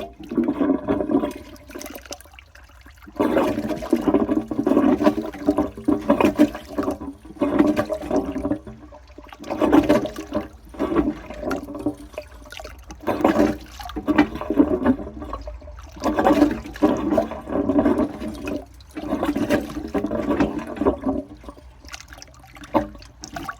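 Water surging and gurgling in a 1940s W & J Lawley 402 cast iron cistern as the flush is tried again and again. It comes in about ten surges every couple of seconds, none of which sets off a full flush.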